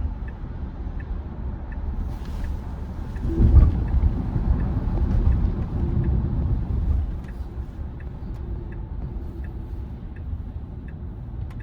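Road and tyre rumble inside a Tesla Model Y's cabin, swelling louder for a few seconds about three seconds in. Over it a turn-signal indicator ticks evenly, about one and a half ticks a second, as the car changes lanes.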